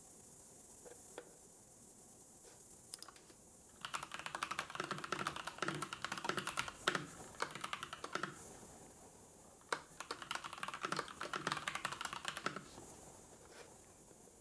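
Typing on a computer keyboard in two quick bursts of rapid keystrokes, each lasting a few seconds, with a short pause between them. A few single clicks come before the typing starts.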